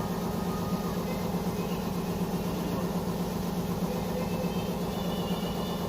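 Steady low mechanical hum, like a motor running, with no change in pitch or level.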